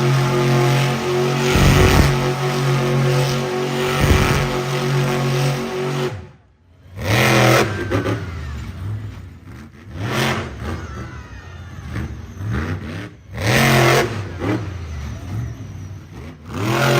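Monster truck engine running hard, a steady high-revving drone for about six seconds. After a sudden break it gives a series of sharp revs that rise and fall every few seconds.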